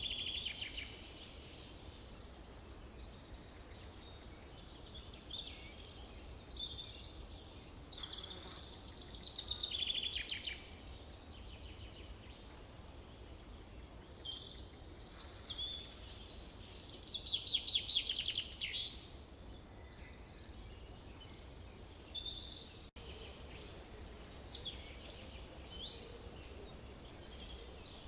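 Forest birds singing, with many short chirps and whistles from several birds and two louder rapid trilled songs, one about ten seconds in and one about eighteen seconds in, over a steady low background rumble.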